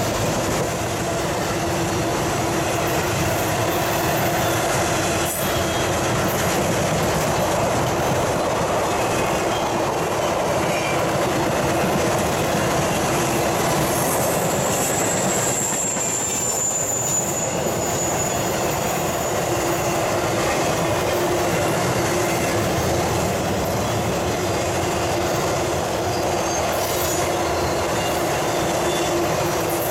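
Intermodal freight train cars carrying containers and trailers rolling past: a steady rumble of steel wheels on the rails. About halfway through, a thin, high wheel squeal is held for several seconds, sliding slightly lower.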